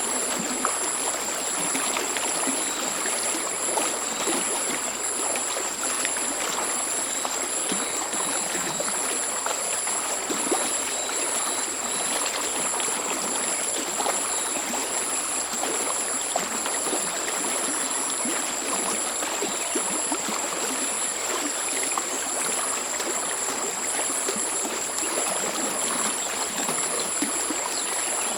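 Mountain stream flowing and babbling steadily, with a high-pitched pulsing tone running above the water.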